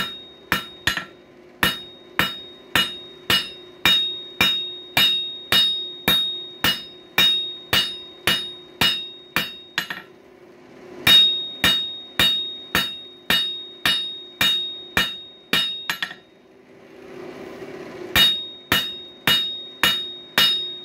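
Hand hammer striking hot coil-spring steel on an anvil to draw the end down to a point, about two blows a second, each followed by a bright ring. The blows come in runs, with a short pause about ten seconds in and a longer pause around sixteen seconds in that holds a soft hiss, over a low steady hum.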